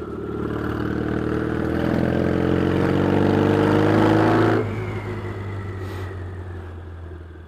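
Yamaha XS650 parallel-twin engine, loud, accelerating with its pitch rising steadily for about four and a half seconds, then the throttle closes suddenly and the sound dies away gradually.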